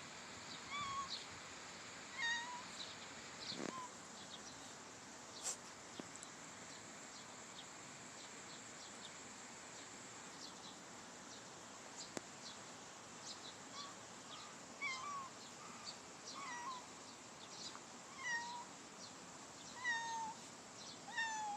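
A kitten mewing in short, high-pitched calls. A few come at the start, then a long pause, then they come more often from a little past the middle to the end. There is one sharp click during the pause.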